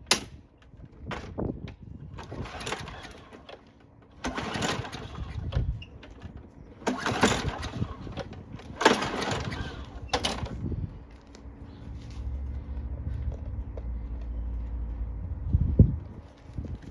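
Briggs & Stratton 6.75 lawn mower engine being pull-started after priming: four cranking bursts about two seconds apart, then a steady low hum for about four seconds that ends with a knock.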